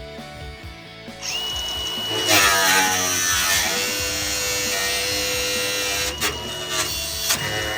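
A power tool running with a steady high-pitched whine over background music; it spins up about a second in, cuts out around six seconds, and comes back briefly near the end.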